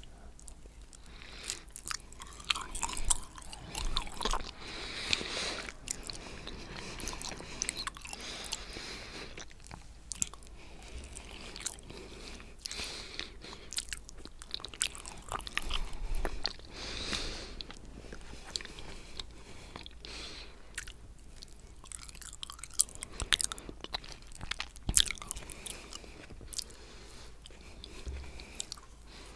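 Close-miked chewing and wet mouth sounds of someone eating coconut cheesecake, with irregular smacks and sharp clicks.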